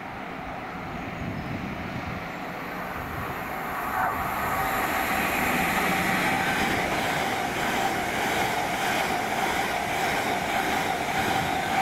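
A train approaching and running past the platform, growing louder about four seconds in, with a steady whine over the rumble and rush of the wheels.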